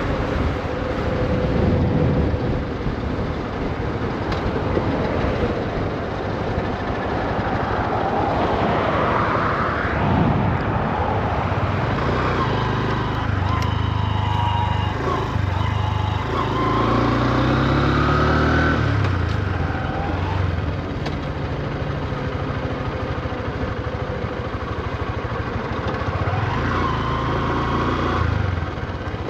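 2024 Honda CB125F's single-cylinder four-stroke engine running while riding, rising in pitch and dropping back a few times in the middle as it pulls through the gears. The new engine is kept at low revs while it is being run in.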